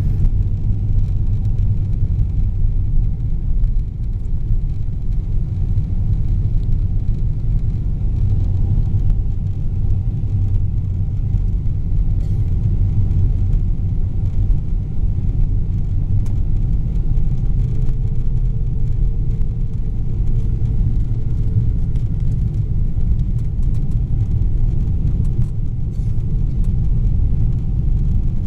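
Steady low rumble of a Boeing 777-300ER's cabin noise in flight, engine and airflow noise heard from inside the passenger cabin, with no distinct events.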